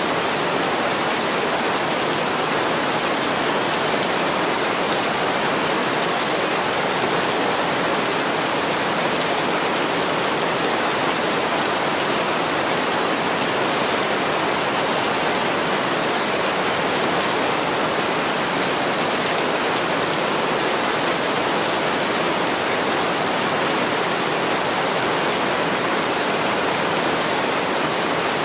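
Heavy rain falling steadily on a window, an even, unbroken hiss of water.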